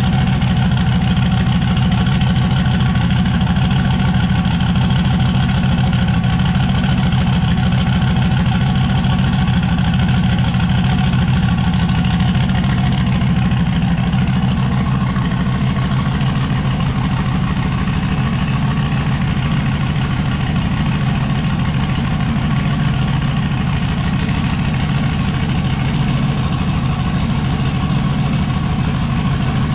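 Turbocharged LS V8 engine in an S10 drag truck idling steadily and loudly.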